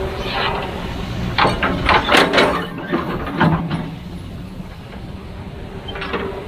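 Kobelco SK200-10 excavator's diesel engine running with a steady hum, with a cluster of sharp clanks and knocks between about one and a half and two and a half seconds in and another about three and a half seconds in, then steadier, quieter running.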